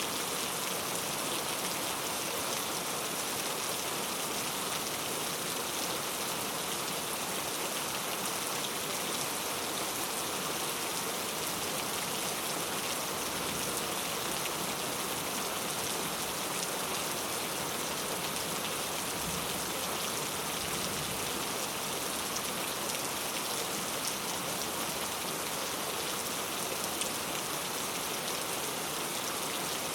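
Heavy rain falling steadily on mango leaves, a dense even patter with no pauses.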